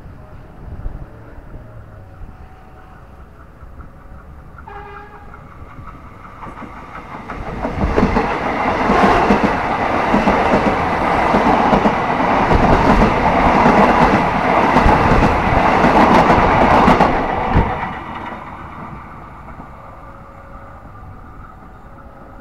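KfW i9000 electric multiple unit passing close at speed: a brief horn toot about five seconds in, then rumble and rapid clatter of wheels over rail joints that build quickly, stay loud for about ten seconds and fall away sharply as the train clears.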